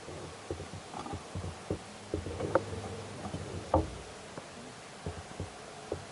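Irregular knocks and clicks of hands and tools working on a snowmobile's variator during a drive-belt change, the two loudest knocks about two and a half and nearly four seconds in.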